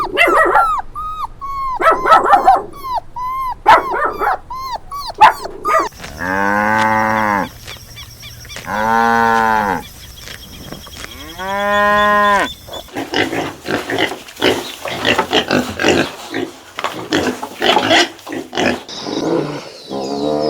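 A cow mooing three times, each moo long and drawn out, about two seconds apart, in the middle. Before the moos comes a quick run of short, high animal calls, and after them a fast, dense string of rough animal sounds.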